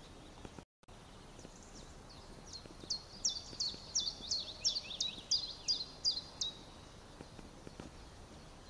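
A songbird singing a run of about a dozen short, high notes, each dropping in pitch, about three a second. They start faint, grow louder, then stop. A steady outdoor hiss of wind and air runs underneath, and the audio drops out for a moment near the start.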